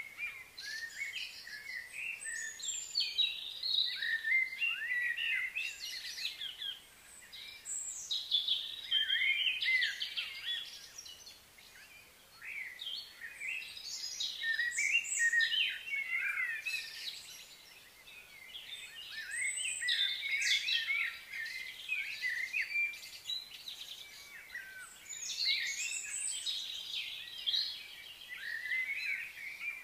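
Several birds chirping and singing in quick, overlapping high-pitched calls, coming in waves with short lulls.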